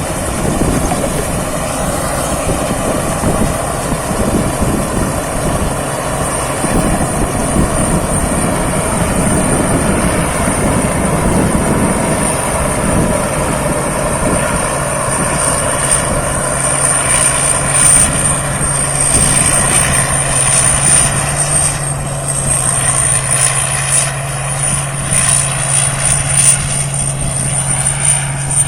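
Thai-built rice combine harvester running while harvesting rice: a continuous machine drone with a steady high whine over it, and a steady low hum settling in about halfway through.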